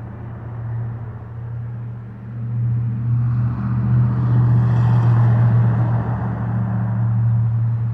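A motor running with a steady low hum, and a rushing noise that swells in the middle and eases off toward the end.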